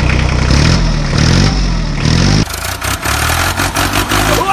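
Tractor engine sound revving up and down, then dropping back to a lower, steadier run about two and a half seconds in, with some clicking and clatter.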